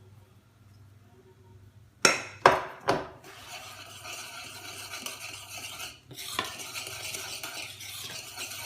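A utensil stirring flour into cake batter in a bowl: after a quiet start come three sharp knocks against the bowl about two seconds in, then steady stirring and scraping.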